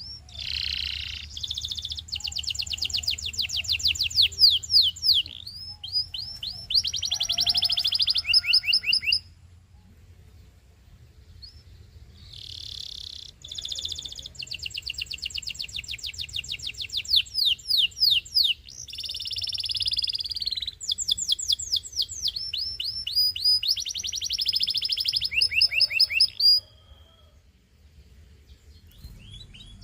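Canary singing two long, loud song phrases built of rapid trills, fast runs of repeated high notes that change type every second or two. A pause of about three seconds separates the phrases, and a few scattered notes follow near the end.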